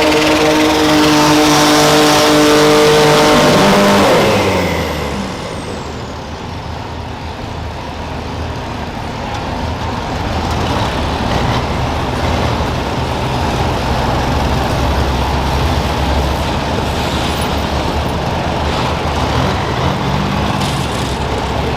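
Diesel garden tractor engine held at high revs, then dropping in pitch and level about four seconds in and running on at low revs, with a short rev up and back down near the end.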